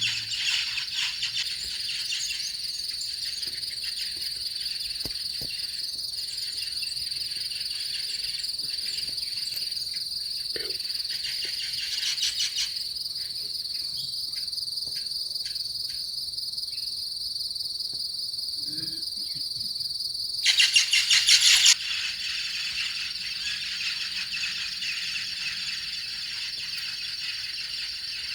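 Insects trilling steadily at a high pitch in a fast, even pulse, swelling louder briefly about twelve seconds in and again for about a second near twenty-one seconds. Occasional bird chirps sound in the background.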